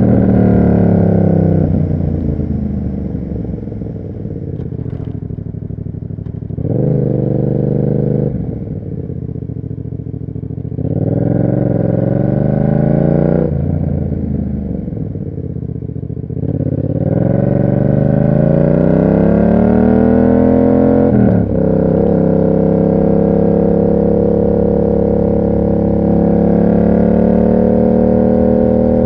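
Yamaha MT-07 parallel-twin engine through an SC Project aftermarket exhaust while riding. The pitch falls off as the rider rolls off, with a few short bursts of throttle, then climbs steadily under acceleration. About 21 seconds in there is a brief break for a gear change, and the engine then holds a steady higher cruising note.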